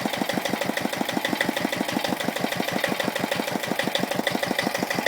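Bernard W51 diesel stationary engine running steadily, with a rapid, even knocking beat of firing strokes.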